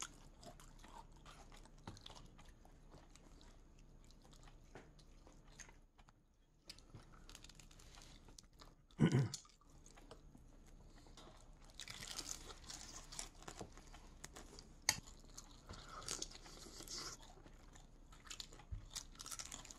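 A person chewing and crunching crispy oven-baked salmon head, with wet mouth sounds and crackling bites that come thicker in the second half. One brief louder mouth noise about nine seconds in.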